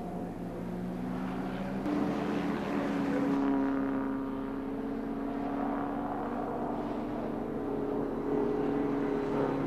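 Engines of 1950s sports racing cars running at speed on track, a steady engine note that steps up in pitch a couple of times.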